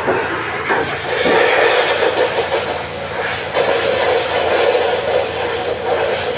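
Loud, steady rush of air and machinery noise from a running HVAC fan unit, wavering slightly in level.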